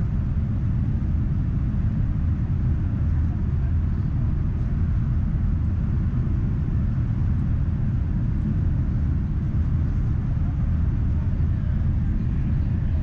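Southeastern Class 395 Javelin electric train running at speed, heard from inside the carriage: a steady low rumble with a lighter hiss above it.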